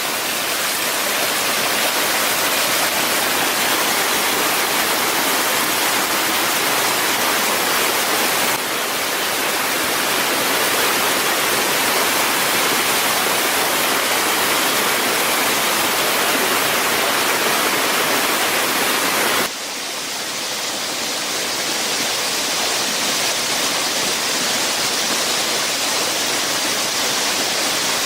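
Steady, loud hissing noise like rushing water. It shifts suddenly in level and tone about nine seconds in and again about twenty seconds in.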